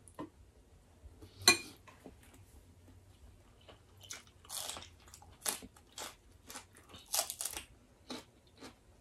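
Close-miked eating sounds: people biting and chewing crisp food, with a sharp crunch about a second and a half in and then a run of smaller crunches and mouth clicks.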